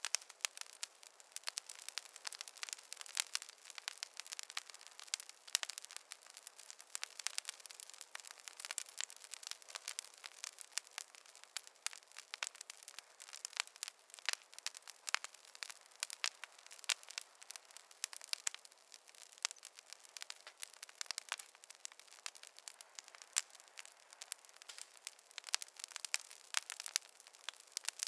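Wood fire crackling in a fireplace: burning logs give a dense, irregular run of sharp pops and snaps.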